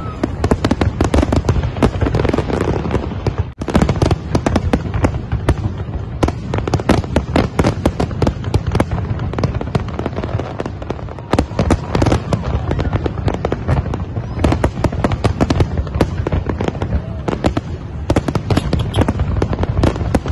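Aerial fireworks display: a dense, continuous barrage of bangs and crackles from many shells bursting at once, with a momentary break a few seconds in.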